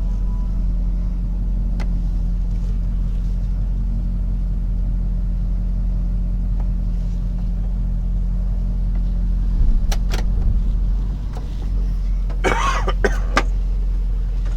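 Rollback tow truck driving along, a steady low engine and road drone, with a person coughing a few times near the end.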